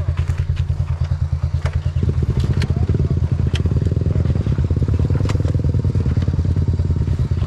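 Small single-cylinder off-road engine running with a pulsing exhaust, picking up speed and getting louder about two seconds in. A few sharp clicks are heard over it.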